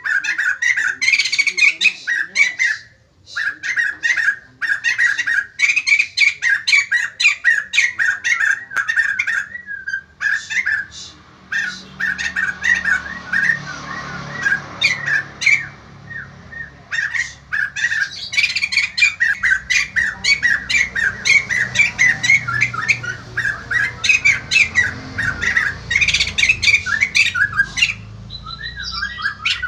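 White-crested laughingthrush calling loudly in rapid, chattering strings of notes, almost without pause, with brief breaks about three seconds in and around the middle.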